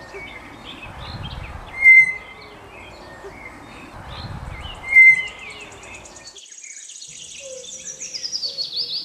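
Lowland tapir giving its short, high-pitched whistle twice, about three seconds apart, over constant background bird and insect calls. About six seconds in, the ambience cuts to a different scene with a high, descending bird trill.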